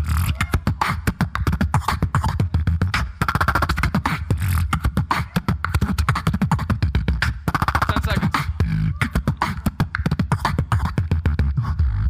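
Solo beatboxer performing live: a fast, dense run of vocal kicks, snares and clicks over a steady deep bass.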